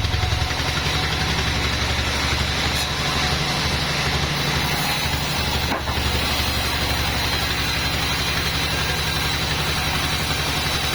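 Engine of a homemade bandsaw sawmill running steadily with a low, fast-pulsing drone, briefly dipping about six seconds in.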